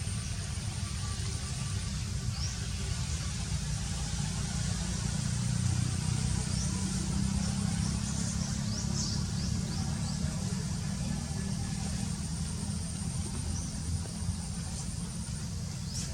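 Outdoor ambience: a steady low rumble with a thin, steady high-pitched tone above it and a few faint, short chirps scattered through.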